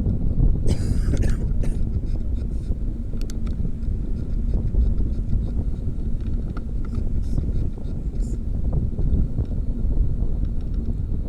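Wind buffeting the microphone of a camera on a moving bicycle, a steady low rumble, with light clicks and rattles throughout and a brief hissing scrape about a second in.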